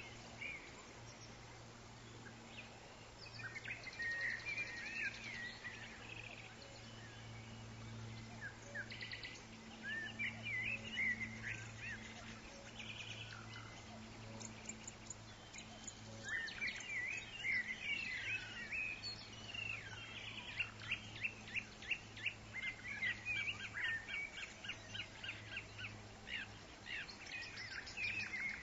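Forest birds chirping and calling, with short sweeping notes that grow busier after the middle into a fast run of repeated chirps. A faint steady low hum lies underneath.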